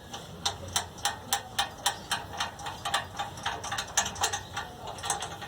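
Ratchet wrench clicking in a steady run, about three to four clicks a second, as it is worked back and forth on a bolt of a 2.5 kW generator's engine.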